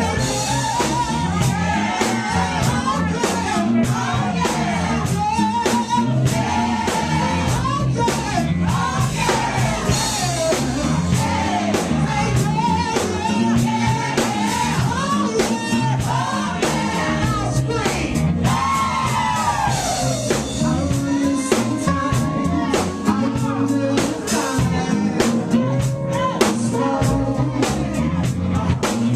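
Live funk and soul band playing with a singer's voice over a steady bass and drum groove.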